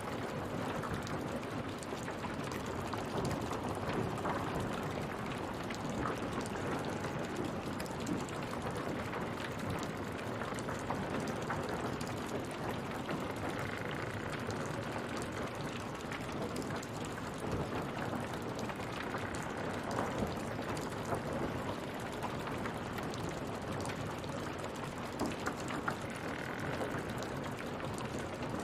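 Rain falling steadily, an even patter of water with many small drop clicks.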